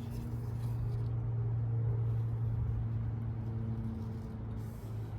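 Toyota Century G50's 5.0-litre 1GZ-FE V12 engine idling with a steady low hum.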